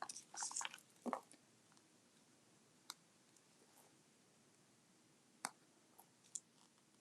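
Faint, scattered small clicks and taps, a few seconds apart, from red rhinestones and craft bits being handled on a tabletop, over near silence.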